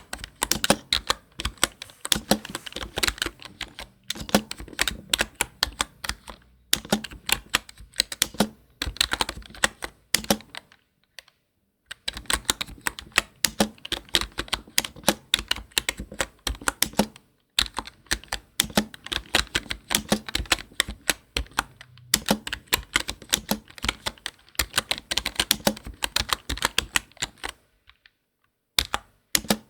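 Typing on a computer keyboard: fast runs of key clicks in bursts several seconds long, broken by a few short pauses.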